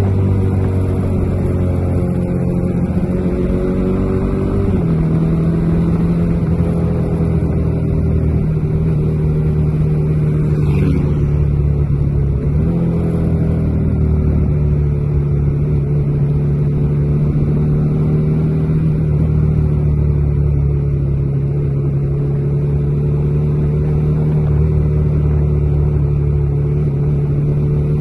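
Bajaj Dominar 400 single-cylinder motorcycle engine under way at cruising speed, its note steady. The revs shift and drop about five seconds in, dip briefly again a little before halfway, then hold even.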